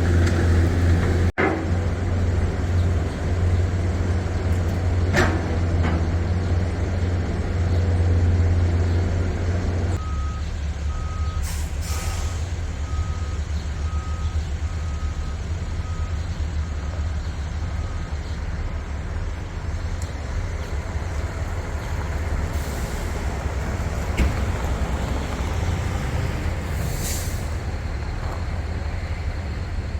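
Truck engine running with a steady low hum that drops in level about a third of the way in. Soon after, a backup alarm beeps about once a second for several seconds.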